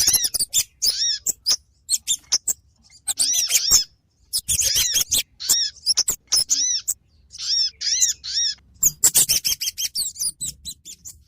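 Bird-lure recording of kemade and sogon calls: quick series of sharp high chips mixed with repeated arched whistled notes, with short pauses between series and a fade-out near the end.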